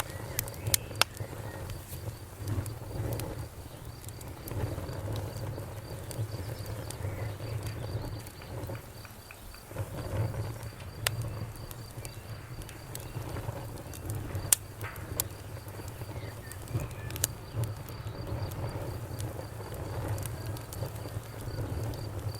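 Wood fire crackling: sharp pops and snaps at irregular intervals, a few of them louder, over the steady low rumble of the flames.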